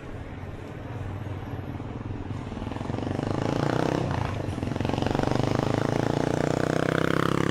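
A vehicle's engine draws closer and grows steadily louder, its pitch dropping near the end as it passes.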